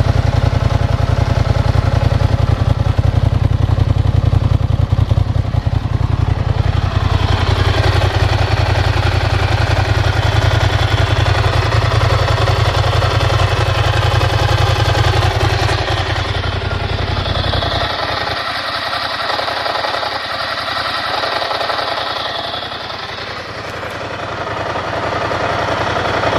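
Ducati Hypermotard 1100S's air-cooled L-twin engine running at a steady idle through a full Termignoni exhaust. About two-thirds of the way through, the deep rumble drops away and the sound gets quieter, then picks up again near the end.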